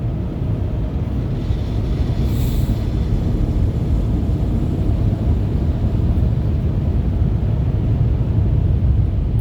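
Steady low rumble heard from inside a minivan's cabin in a touchless car wash bay, with a brief hiss about two seconds in.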